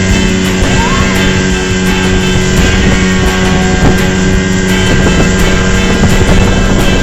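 Speedboat engine running steadily at speed, with music playing over it.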